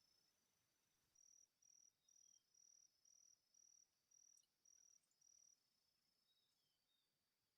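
Faint insect calls: a steady high trill, with a run of about nine evenly spaced high chirps, roughly two a second, through the middle.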